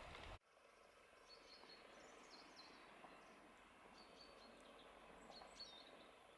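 Faint, short, high bird chirps of small songbirds, repeated irregularly against near silence. A soft outdoor hiss cuts off abruptly just at the start.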